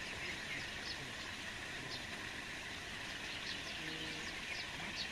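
Outdoor nature ambience: a steady hiss with short, high chirps of small birds repeating about once a second.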